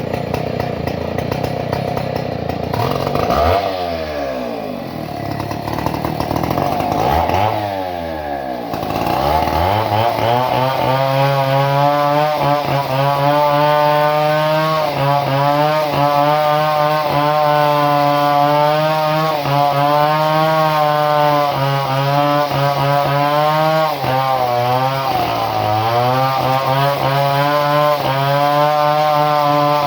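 Two-stroke chainsaw engine running unevenly at first and revved up and back down twice. From about a third of the way in it is held at high revs, its pitch wavering slightly, with a brief drop near the end.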